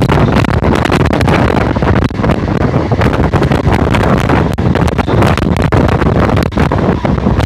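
Heavy wind buffeting the microphone over the running rumble of a local passenger train moving at speed, with frequent short clatters and knocks throughout.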